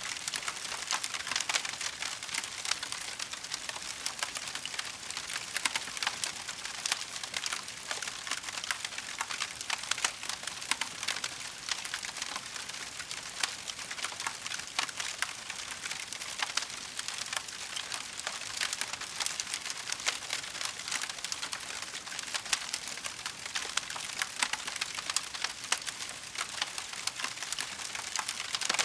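Wood fire burning in a fireplace, crackling steadily with dense, irregular pops over a soft hiss.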